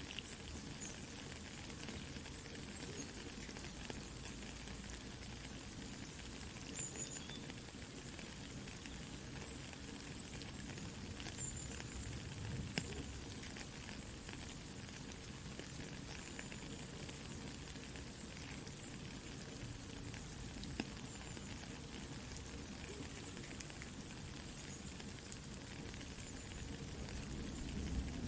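Soft rain pattering together with a campfire crackling: a steady hiss scattered with small pops.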